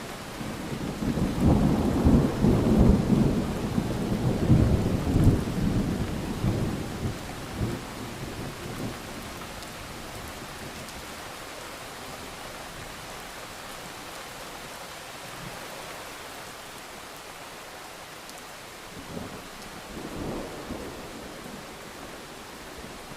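Steady rain with a long, loud roll of thunder rumbling low for several seconds near the start and fading away, then a shorter, fainter rumble near the end.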